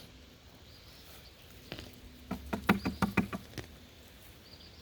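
A quick run of light taps and snaps, about a dozen over two seconds starting near the halfway point, from hands handling freshly pulled carrots.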